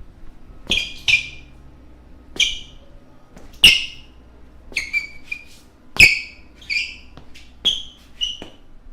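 Basketball shoes squeaking on a floor: about a dozen short, sharp, high-pitched squeaks at irregular intervals, some with a dull footfall thud at the start.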